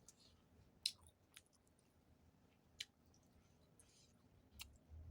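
A person chewing food close to the microphone, faint, with several sharp mouth clicks and smacks, the loudest about a second in.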